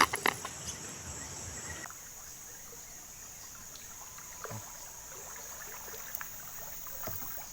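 Riverside ambience: a steady high-pitched insect drone with faint trickling water, and a couple of light knocks about halfway through.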